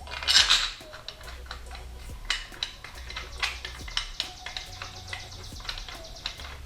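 Metal hand tools, bolts and engine-mount parts clinking and knocking against one another in a run of irregular clicks, loudest about half a second in.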